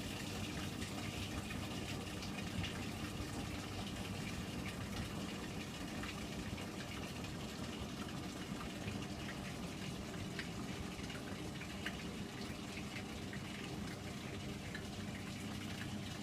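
Hotpoint washing machine's drain pump running steadily with a low hum, water rushing out of the drum as the machine drains during its cotton wash cycle.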